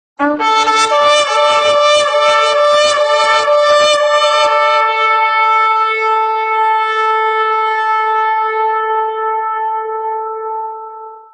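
A shofar (ram's horn) blown in one long blast. It opens on a short low note that jumps up to the main pitch, sounds rough and wavering for the first four seconds or so, then is held steady for about six more seconds and fades out near the end.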